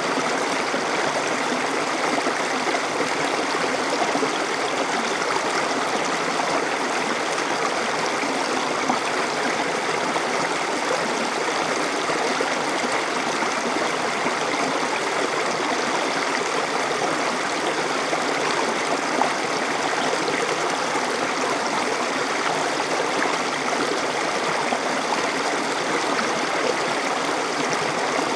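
Small stream flowing steadily over rocks, a continuous rushing and gurgling of water.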